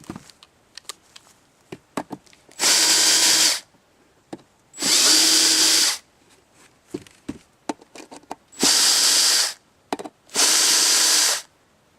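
Cordless drill-driver running in four short bursts of about a second each, backing screws out of a cedar birdhouse. Small clicks and taps of handling come between the bursts.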